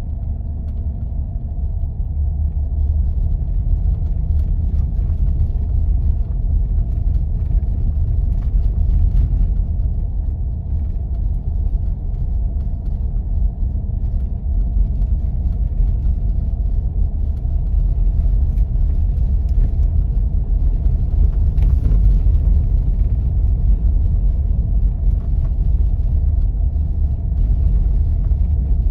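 4x4 driving on snow-covered roads: a steady low rumble of tyres and drivetrain, with a faint steady hum above it.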